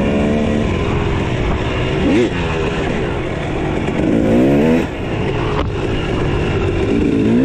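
Dirt bike engines running on a trail, the revs rising and falling several times, with a quick blip of the throttle about two seconds in and a longer rise and drop around four and a half seconds.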